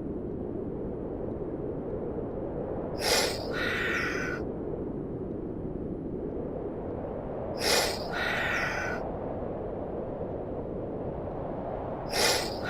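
An animal call repeated three times, about four and a half seconds apart. Each call is a loud breathy blast followed by a shorter, higher pitched sound, over a steady low background rumble.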